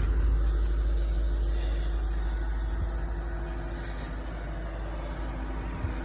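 2004 Audi S4's 4.2-litre V8 running steadily, not yet up to full operating temperature; the sound eases gradually quieter.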